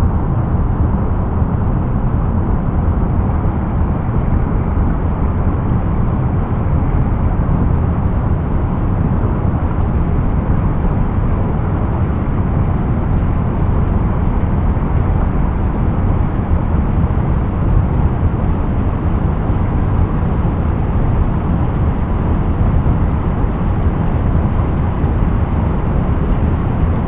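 Steady, deep rushing of water, an unbroken low noise with little hiss on top.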